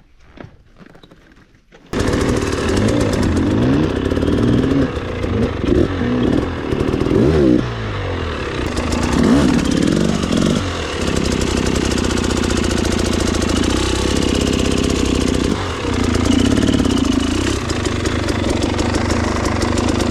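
Dirt bike engine running on a trail ride, revving up and down repeatedly and then holding steadier. It cuts in abruptly about two seconds in.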